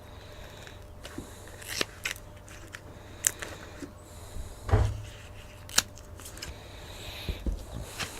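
Handling sounds while builders' flashing tape is fitted to a plastic water butt: scattered crinkles and sharp clicks, with a dull thump about halfway through.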